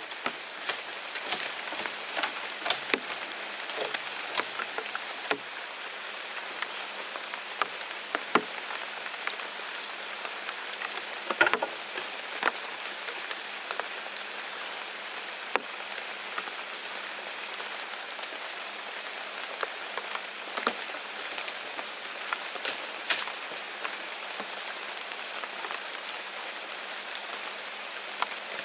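Steady rain hissing, with irregular sharp taps of single drops landing close by.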